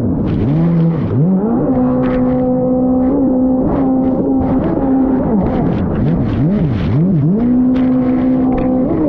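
Fast Powersports F16 jet ski engine running hard under throttle. Its pitch holds steady for stretches, and several times it drops sharply and climbs back as the throttle is let off and opened again.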